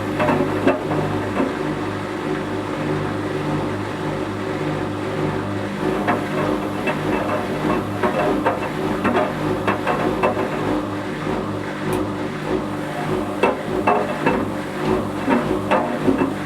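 Whirlpool Indiana 1400 front-loading washing machine running, its motor humming steadily, while toy ducks tumble in the drum and knock against it in irregular clatters.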